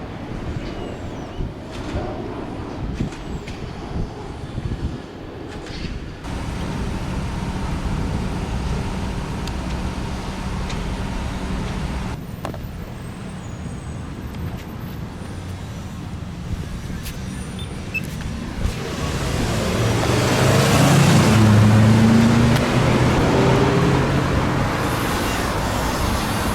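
Road traffic noise from passing cars, with a heavier vehicle's engine growing louder for several seconds near the end.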